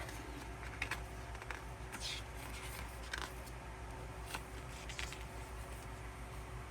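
Photocards and album pieces being handled and flipped over by hand: a few faint, scattered light taps and rustles.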